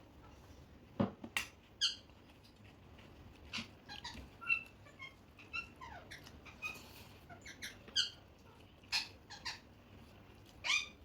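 Pet parrot giving short, squeaky chirps at irregular intervals, mixed with a few sharp clicks.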